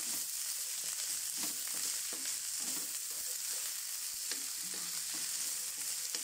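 Cut flat hyacinth beans (kacang kara) sizzling in a black non-stick wok in a little hot oil, being stirred and tossed with a wooden spatula, with soft scrapes of the spatula against the pan among the steady hiss.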